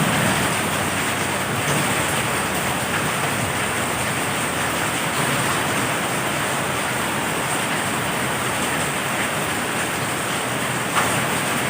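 Heavy rain falling steadily, an even hiss, with one sharp tap near the end.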